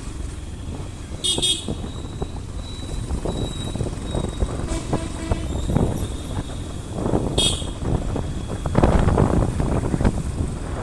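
Riding noise from a motorcycle on the road, with rumbling wind buffeting the microphone. Two short horn toots sound, one about a second in and another about seven seconds in.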